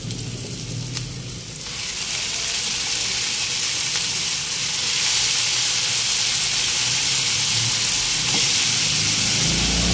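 Raw chicken pieces going into hot oil with sautéed garlic, onion and tomato in a pan, sizzling. The sizzle grows louder in two steps, about two and about five seconds in, as the chicken goes in.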